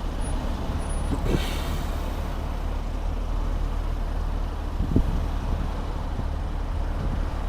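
BMW M4 Competition (G82) twin-turbo straight-six running with a steady low drone, with a brief hiss about a second in.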